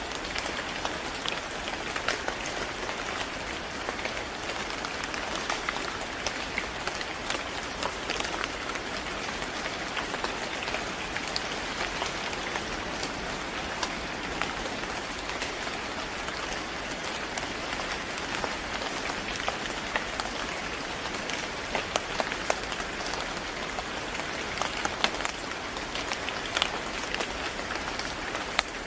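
Steady rain falling: an even hiss with many sharp, separate drop clicks on top.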